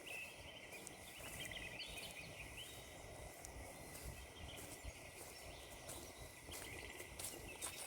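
Faint birdsong: short chirps and twittering calls over quiet woodland background.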